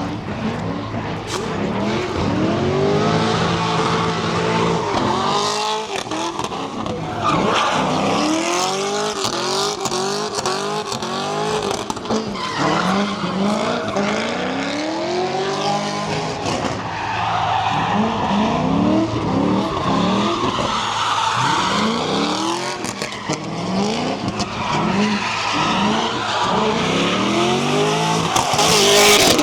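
A car engine revving up and falling back over and over while its tyres squeal and skid, as a car does donuts. It surges loudest near the end.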